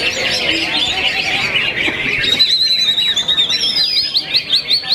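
Greater green leafbird (cucak ijo) singing busily among other contest songbirds. Over the second half it breaks into a fast run of short rising notes, about four or five a second.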